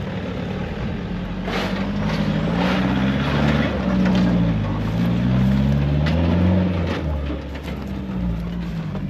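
4WD engine revving up and down under load as the vehicle drives off-road, its pitch rising and falling several times and loudest in the middle.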